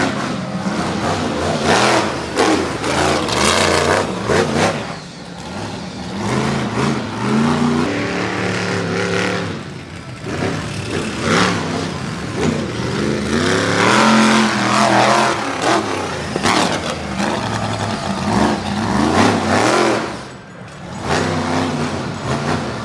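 Monster truck engine revving hard and backing off over and over during a freestyle run. Its pitch climbs and falls, and the sound drops away briefly a few times as the throttle is lifted.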